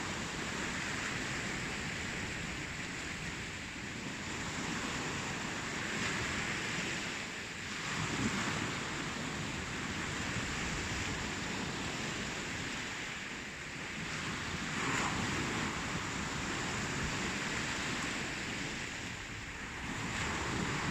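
Ocean waves: a continuous rush of surf, swelling louder as waves break about eight and fifteen seconds in.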